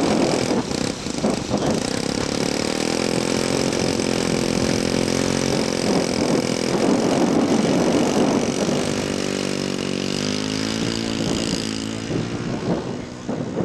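Scale model Tiger Moth's engine running steadily, its pitch rising late on as it speeds up for the takeoff run.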